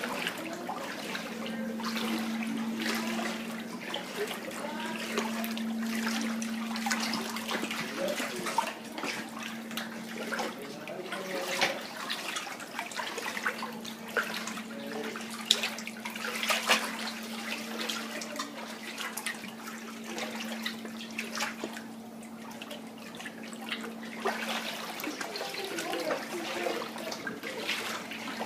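Shallow floodwater on a basement floor splashing and sloshing, with many irregular small splashes, over a steady low hum that drops out now and then.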